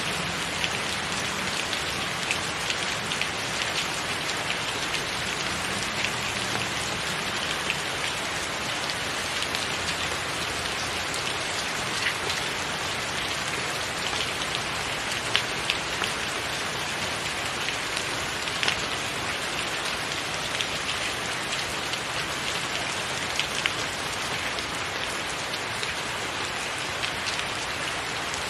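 Steady rain falling on a tiled roof, with single drops ticking out sharply here and there.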